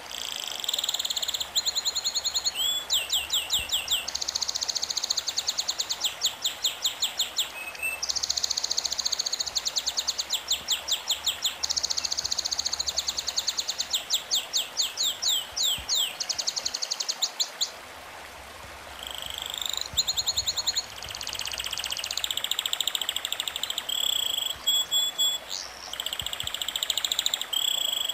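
Songbird singing in fast trills: long runs of rapidly repeated high chirps, with a brief lull about two-thirds through.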